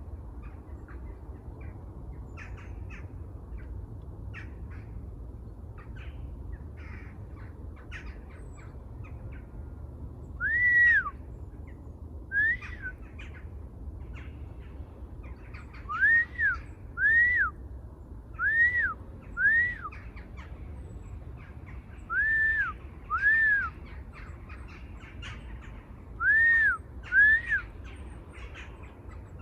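Wild birds calling: a run of short, rapid chirps at first, then from about a third of the way in, loud whistled notes that rise and fall, mostly in pairs about a second apart.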